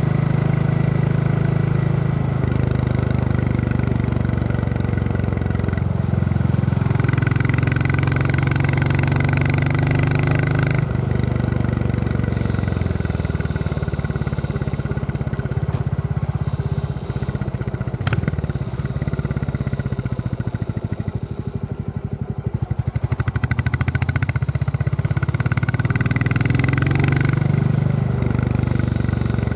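Royal Enfield Classic 350's single-cylinder engine thumping steadily under way. Its note drops about eleven seconds in, eases off to slower, softer beats around the middle, then picks up again. There is one sharp click near the middle.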